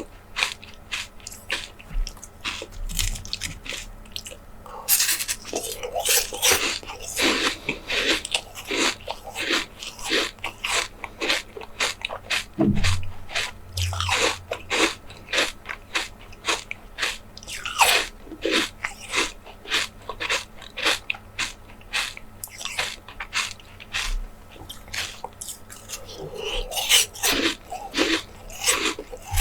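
A person eating close to the microphone: rapid chewing and biting, with many sharp, crunchy clicks in quick succession.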